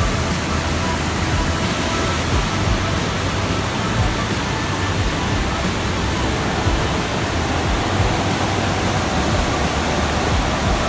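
Ramboda Waterfall's water rushing, a loud, steady roar of falling water with no breaks.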